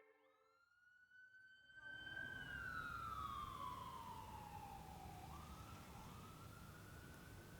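Faint emergency-vehicle siren wailing slowly: it rises, holds, glides down over a few seconds, then climbs again about five seconds in. A low background rumble comes in about two seconds in.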